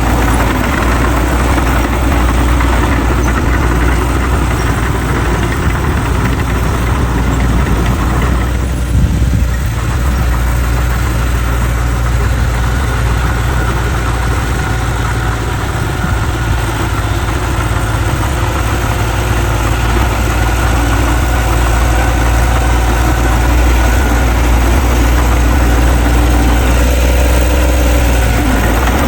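Bulldozer's diesel engine running steadily under load, a loud, deep, continuous engine sound.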